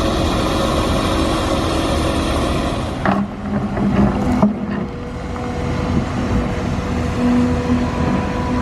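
Engine noise: a motor running with a steady hum, which changes about three seconds in to a lower, steady drone.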